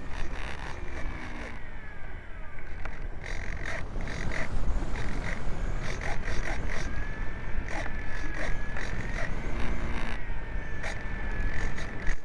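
Wind buffeting the microphone, with a thin, wavering electric motor whine from a Hawk Sky RC foam plane in flight that rises and falls in pitch through the second half.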